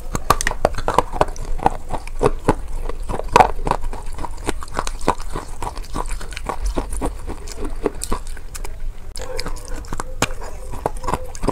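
Close-up biting and chewing of a KitKat-style chocolate-covered wafer bar: a continuous run of crisp, irregular crunches as the wafer breaks between the teeth, with a fresh bite near the end.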